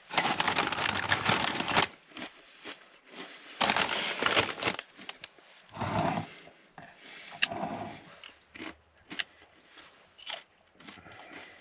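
Tostitos tortilla chips being handled and eaten: crinkling of the chip bag and crunching and chewing of chips. Two longer loud stretches of crinkling and crunching, one at the start and one about four seconds in, are followed by shorter separate crunches.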